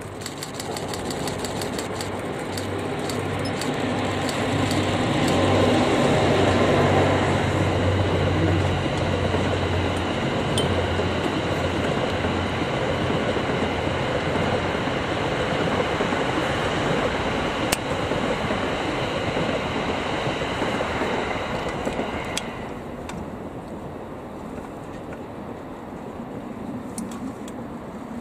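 An EF81 electric locomotive hauling the 12-car E26 series Cassiopeia sleeper train runs past on the rails. A low hum sounds for about the first ten seconds, under a steady rumble of wheels on track that is loudest a few seconds in and drops off abruptly about 22 seconds in as the last car goes by.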